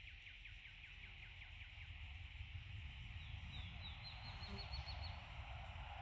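Faint birdsong: a trill of short down-slurred notes, about five a second, fades out about two seconds in. A higher trill of similar quick notes follows from about three to five seconds. Both sit over a steady high hiss and a low rumble.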